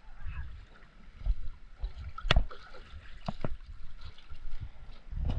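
Water splashing and sloshing around a small craft at sea, with a few sharp knocks, the loudest a little over two seconds in and two more about a second later.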